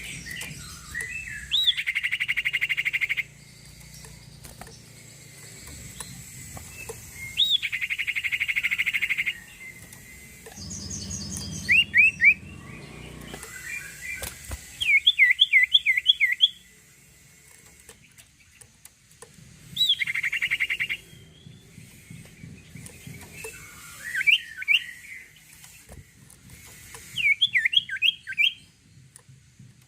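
A sirtu songbird singing energetically in separate phrases. Buzzy trills lasting about two seconds alternate with quick runs of sharp whistled notes, with pauses of a few seconds between phrases.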